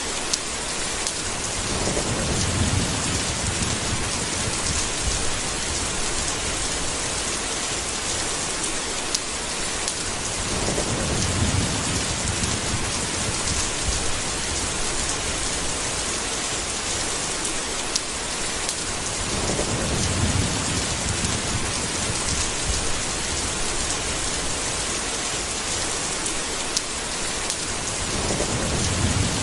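Steady heavy rain in a thunderstorm, with a low rumble of thunder rolling in four times, about every nine seconds.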